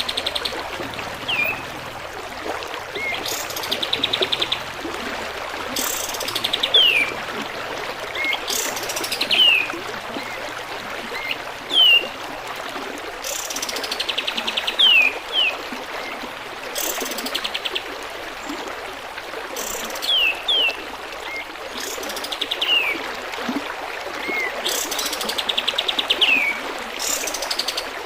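Pied triller (kapas tembak) singing in repeated phrases every few seconds: a fast, rattling trill followed by short whistles that slide downward, with small upswept notes between. Steady trickling water runs underneath.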